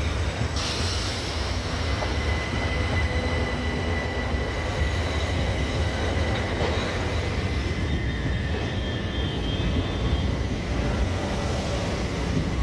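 Passenger train moving past on the rails: a steady low rumble with thin high squealing tones held over it for several seconds.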